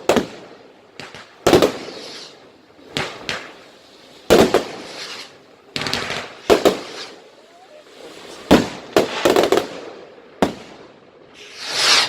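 Fireworks going off: about a dozen sharp bangs at irregular intervals, some in quick pairs, each with a short echoing tail. Near the end comes a rising hiss lasting about a second.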